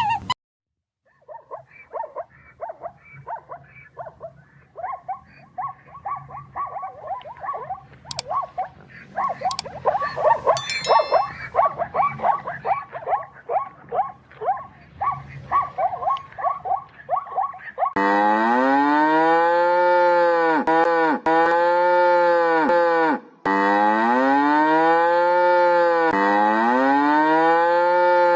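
A dense run of many short, quick animal calls, overlapping one another. About two-thirds of the way through it gives way to a cow mooing loudly in long calls, one about every two and a half seconds, with a brief break between two of them.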